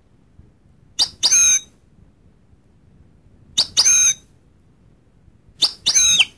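Goldfinch calling: three two-part calls a couple of seconds apart, each a short sharp note followed by a longer high note that bends in pitch.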